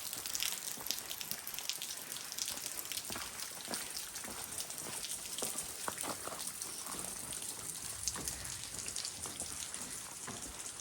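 Footsteps of a hiker walking a dirt and leaf-litter trail: irregular crackling ticks over a steady hiss.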